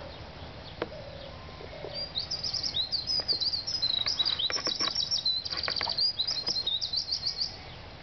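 A songbird singing a fast, varied song of high chirps and trills, starting about two seconds in and stopping near the end, over a steady low background noise.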